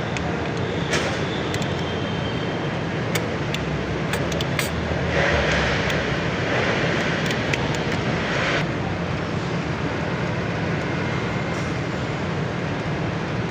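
Forklift engine running steadily with a low hum. Several sharp clicks come in the first five seconds, and a louder rushing hiss rises for about three seconds in the middle.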